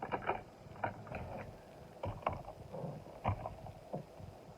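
Irregular clicks and knocks of small die-cast toy cars being handled, with the odd louder knock a little past two and three seconds in.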